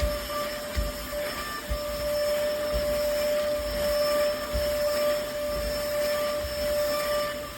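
Lodick cordless stick vacuum cleaner running steadily: an even motor whine over the rush of air, with a few low knocks now and then.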